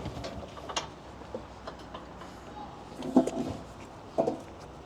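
Scattered mechanical clicks and clanks over a faint low hum, with a few louder knocks about three and four seconds in.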